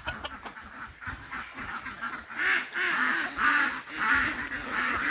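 Ducks quacking repeatedly, a run of rasping calls starting about two seconds in.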